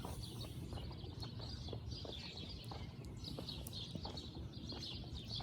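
Birds chirping, with a steady low rumble and faint scattered taps underneath.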